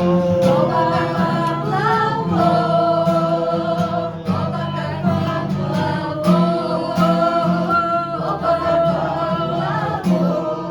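Several voices singing together over a guitar accompaniment.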